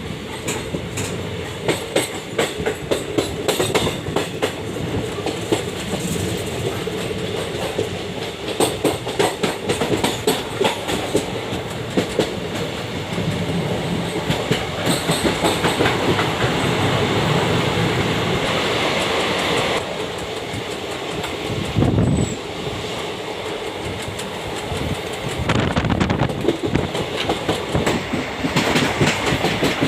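Train running along the track, its wheels clicking over rail joints in repeated clusters above a steady rumble.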